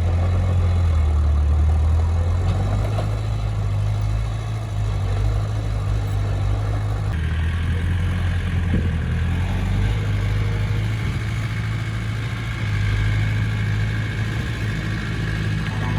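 Bulldozer diesel engine running steadily with a deep hum, the sound shifting abruptly about seven seconds in.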